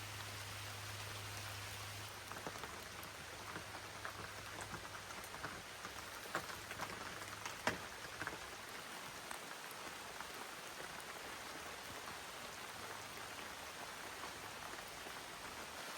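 Steady rain, an even hiss with individual drops striking sharply and irregularly, most of them between about two and eight seconds in.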